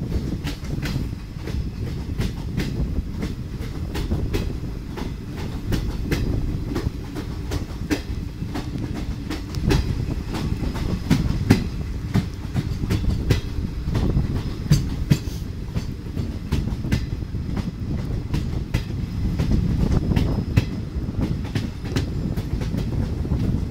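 Passenger train running, heard from the moving coach itself: a steady low rumble of wheels on rail, with many sharp, irregular clicks and knocks as the wheels pass over rail joints.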